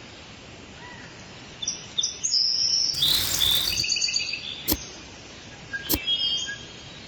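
Birds chirping in short high calls over a steady background hiss. About three seconds in comes a loud, harsh noisy burst lasting about a second, and two sharp clicks follow later.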